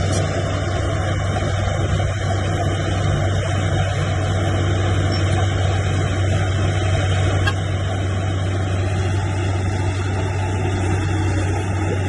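Diesel engine of heavy earthmoving machinery running steadily, a low hum holding the same pitch throughout.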